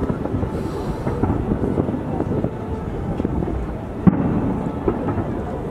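Fireworks going off in a dense run of crackles and booms, with a sharper bang about four seconds in.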